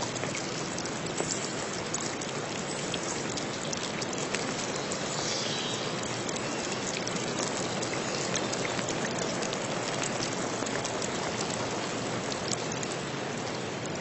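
Steady rain falling, a continuous hiss with many scattered drop ticks.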